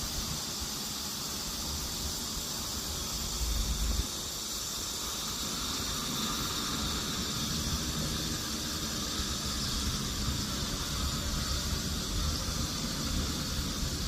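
Multirotor drone flying, its propellers giving a steady high hiss-like buzz, with wind buffeting the microphone in low gusts, strongest about three to four seconds in.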